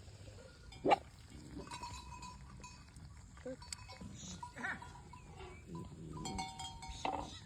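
Farm animals bleating: one loud cry about a second in, then several fainter calls.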